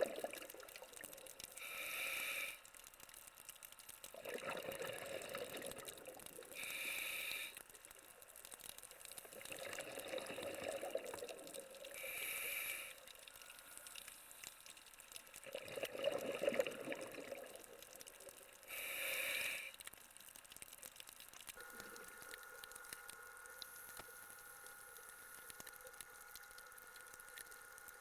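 Scuba diver breathing through a regulator underwater. A short hiss of the inhale is followed by a longer gurgle of exhaled bubbles, in a slow cycle of about one breath every five seconds. After the fourth breath, a bit past twenty seconds in, the breathing stops and only a faint steady hum remains.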